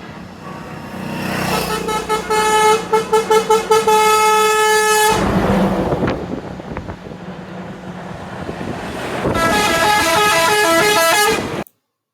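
Truck air horns honking: a run of short rapid toots that runs into a long blast, then noisy passing-vehicle sound. A second horn then plays a quick tune of stepped notes and cuts off abruptly near the end.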